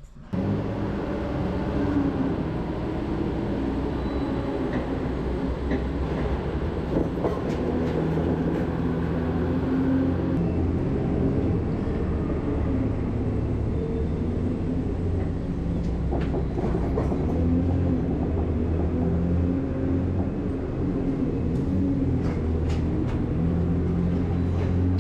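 Heavy truck on the move: a steady low engine drone mixed with road noise, cutting in abruptly at the start.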